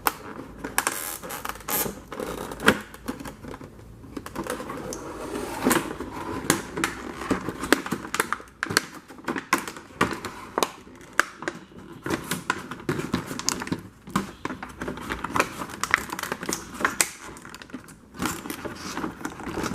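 Plastic toy packaging being handled: irregular clicks, crinkling and scraping as a toy boat is worked loose from its packaging, where it is stuck.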